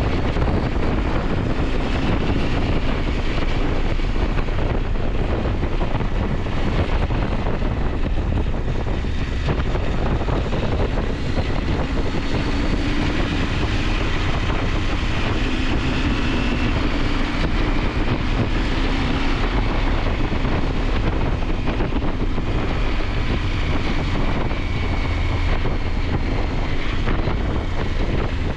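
KTM 890 Adventure's parallel-twin engine running under way on the road, its note rising and falling a little, under a steady rush of wind over the microphone.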